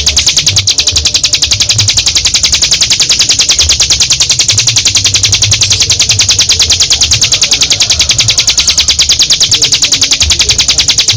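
Ciblek gunung (a prinia) singing one long unbroken 'ngebren' trill: a fast, even rattle of sharp high notes, about eight a second.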